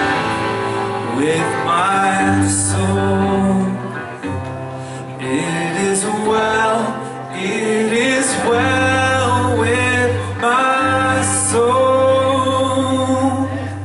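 A worship band playing, with a male voice singing over sustained bass notes and guitar.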